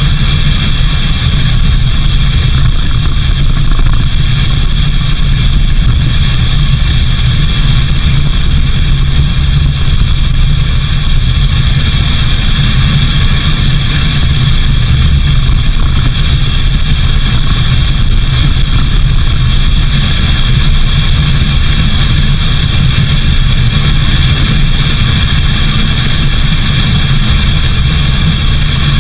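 Vehicle driving steadily: a loud, even low rumble of engine and road noise with a constant higher hum over it.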